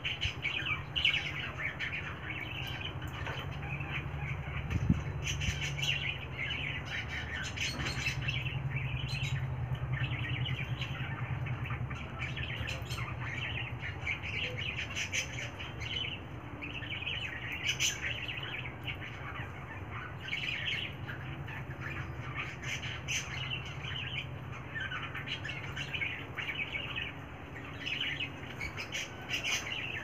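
Birds chirping, many short chirps one after another, over a steady low hum, with a single sharp knock about five seconds in.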